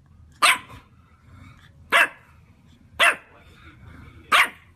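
A dog barking: four sharp single barks, about a second apart.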